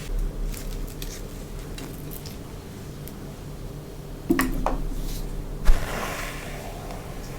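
Close-miked handling sounds: scattered light taps and clicks of small hard objects with soft rustling, including a short clink a little past four seconds in and a sharper click followed by rustling near six seconds.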